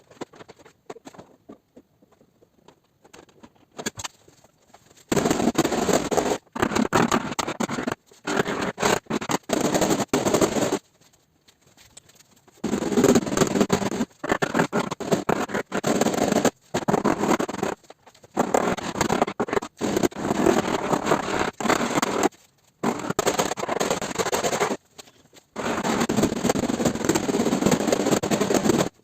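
Paintless dent repair tool work on a car's trunk lid: rapid clattering and scraping in bursts of one to three seconds, separated by short pauses, starting about five seconds in.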